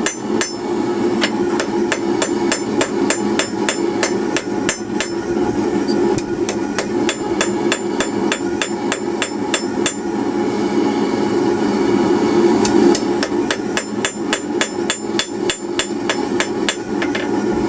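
Hand hammer striking hot steel on an anvil in a quick, even rhythm of about three blows a second, drawing out the tapered point of a spike; the blows thin out briefly about ten seconds in. A steady low roar runs underneath the strikes.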